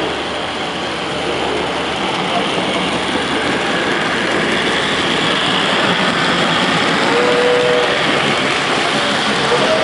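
Steady rushing din of model trains running on show layouts, with a few faint short tones about seven seconds in and near the end.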